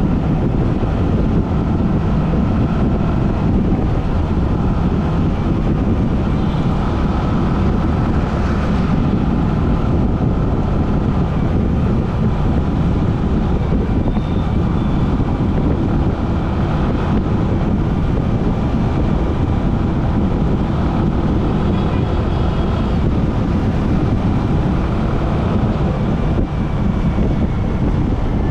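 Metro train running: a steady, loud rumble with faint high-pitched tones above it.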